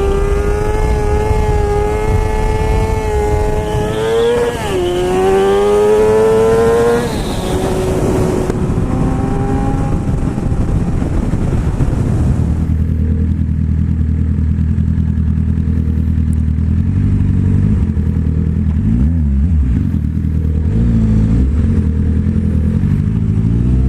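Sportbike engine at high revs, pulling hard: the pitch climbs, drops sharply with a gear change about four and a half seconds in, and climbs again. From about halfway it runs steadily at much lower revs.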